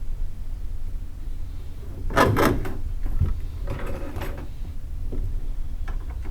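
Two short bursts of rubbing and scraping from hands working in a confined space, followed by a few light knocks and clicks, over a steady low hum.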